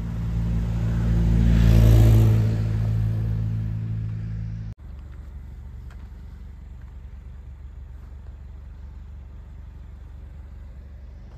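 Car engine idling at a steady pitch, with a swell of louder noise peaking about two seconds in. After a sudden cut about five seconds in, a quieter steady low engine hum.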